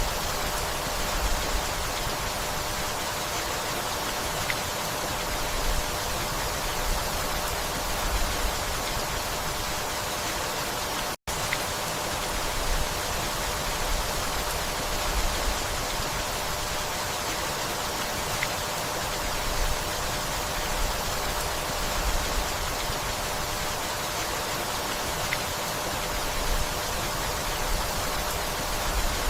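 Steady rain falling, an even hiss of many drops with soft low rumbling swells. The sound cuts out for an instant about eleven seconds in.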